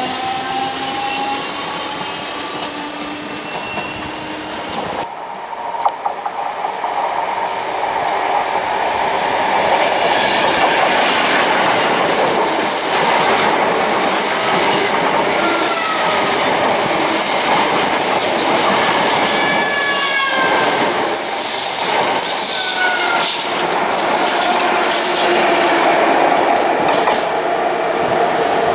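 An express train of Mark 3 coaches passes close by at speed: a loud steady rush with rhythmic wheel clatter over the rail joints and a few brief wheel squeals. Before it, an electric multiple unit's motors whine, rising in pitch as it gets going.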